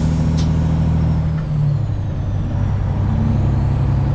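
Cab interior of a Freightliner Classic XL semi truck with a Detroit Diesel 12.7 engine running under way. The engine note drops about a second and a half in and settles into a new pitch about three seconds in, with a brief sharp click near the start.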